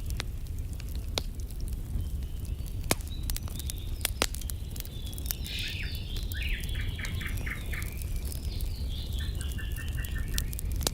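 Campfire crackling, with a few sharp pops in the first half. Over it a bird calls twice in the second half, each time a quick run of short chirps.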